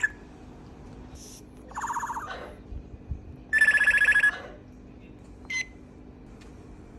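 Cape parrot making buzzy, warbling calls: a short one about two seconds in, a louder and longer one near four seconds, and a brief chirp later.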